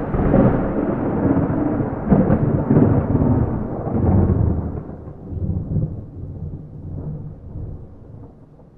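Thunder with no rain: a loud rolling rumble that swells several times in the first four seconds, then dies away into a low, fading rumble.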